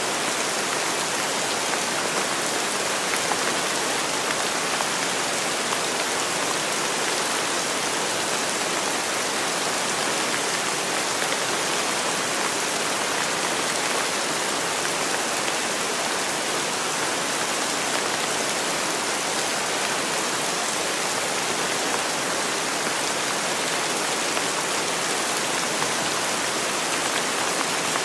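Steady rainfall, an even hiss of many drops with no thunder or other events.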